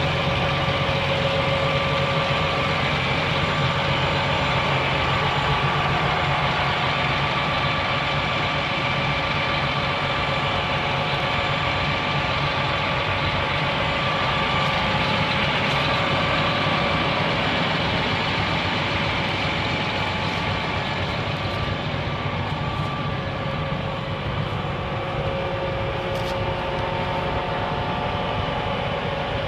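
John Deere 8235R tractor's six-cylinder diesel engine idling steadily, with an even low rumble and a constant whine over it.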